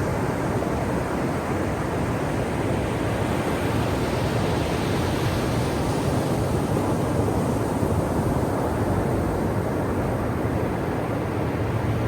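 Ocean surf washing onto the shore as a continuous rushing noise, swelling slightly about halfway through.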